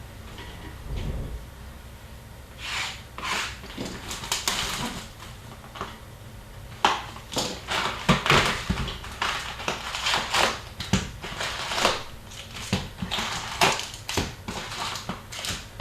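Trading-card packaging being torn and handled: wrappers crinkling and ripping in a long run of irregular scratchy rustles, as a box of hockey cards is opened and its packs unwrapped. The rustling starts about two and a half seconds in and grows denser from about seven seconds.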